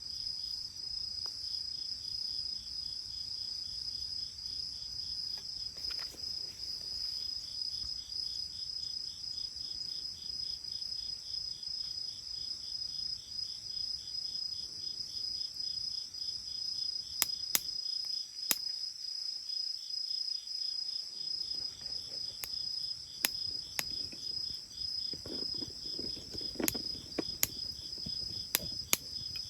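Crickets chirping in a steady high trill. From about halfway through, a bonfire's burning wood gives sharp, scattered pops and crackles.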